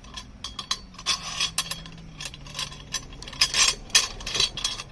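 Aluminium chainsaw-mill parts and bolts clinking, knocking and scraping against each other in irregular strikes as a piece is fitted over a bolt.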